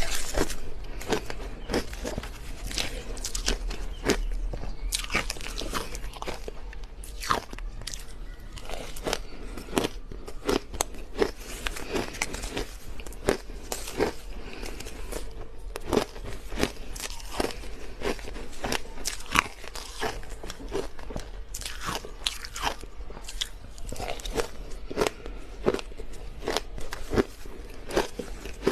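Close-up crunching of crushed ice being bitten and chewed: a dense, irregular run of sharp crackling crunches, several a second.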